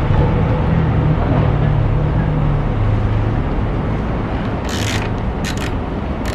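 Steady low engine-like drone, with quick clicking strokes of a ratchet wrench starting about three quarters of the way through.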